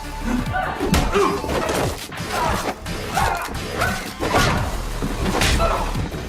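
TV fight-scene sound effects over a music score: a series of hard hits and thuds, about four to six blows, mixed with short grunts.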